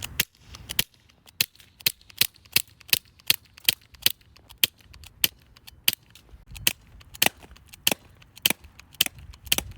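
Umarex Strike Force CO2 BB pistol firing a long string of shots, a little under two a second at an uneven pace, each a sharp crack.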